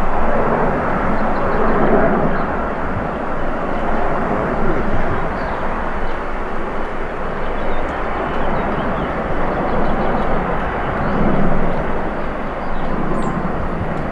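Jet engines of a Boeing 777-300ER, its two GE90 turbofans, heard as a steady, even rush of jet noise that rises and falls slightly in loudness.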